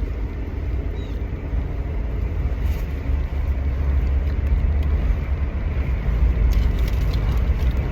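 Steady low rumble of a car heard from inside the cabin, engine and road noise, with a few faint ticks near the middle and toward the end.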